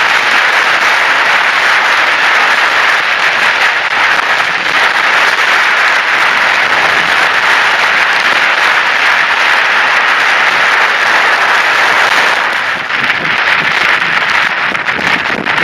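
Dense, steady rushing and patter of rain on the microphone, easing slightly about three quarters of the way through.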